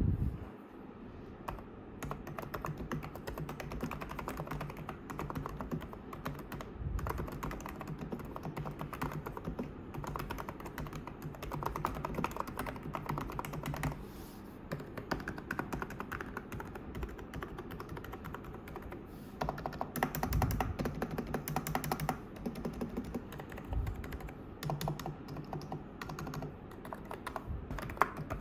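Typing on a Hansung GK898B OfficeMaster electrostatic capacitive (non-contact) keyboard, a steady run of rapid keystrokes. There are a few brief lulls, and a faster, louder flurry about two-thirds of the way through.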